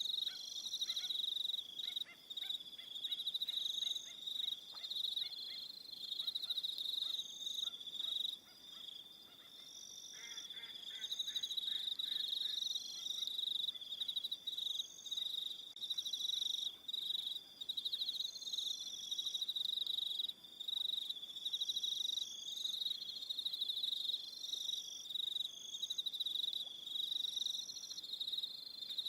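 Crickets chirping in overlapping pulsed trills, one dense high chorus with shorter repeating trills above it. A lower, rapid pulsed call from another animal joins during the first few seconds and again about ten seconds in.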